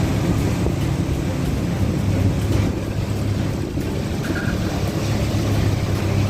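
Boat engine running steadily, a low drone with a constant rush of noise over it.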